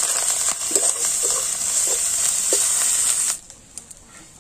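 Onions with ginger-garlic paste and turmeric sizzling steadily in hot mustard oil in a metal kadai, with a flat metal spatula scraping and stirring the masala a few times as it is sautéed. A little past three seconds in, the sizzle cuts off abruptly and only a much quieter background with a few faint clicks is left.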